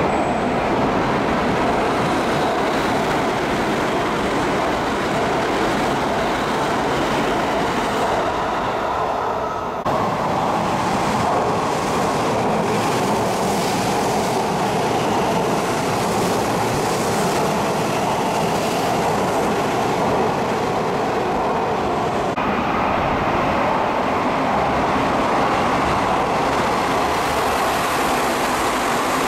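Hanshin Railway electric commuter trains running through the station at speed, a continuous loud rumble of wheels on rail with motor hum. The sound changes abruptly about ten seconds in and again about twenty-two seconds in, as one train's pass gives way to the next.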